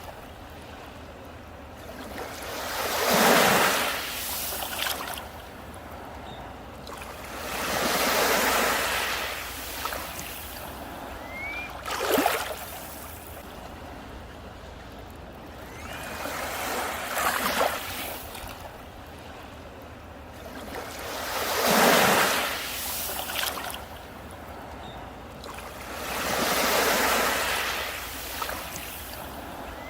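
Sea waves breaking on a beach, each swelling into a rush of surf and washing out again about every four to five seconds, six times over, a couple of them ending in a sharper slap.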